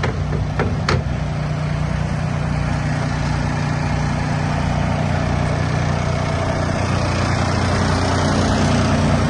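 Semi-truck's diesel engine running steadily, with a few sharp clicks in the first second.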